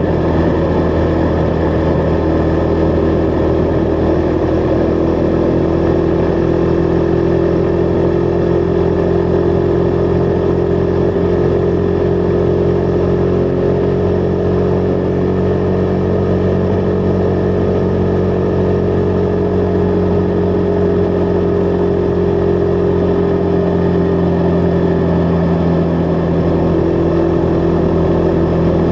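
Husqvarna Vitpilen 401's single-cylinder engine running at a steady cruise. Its pitch rises slightly through the middle and eases back near the end.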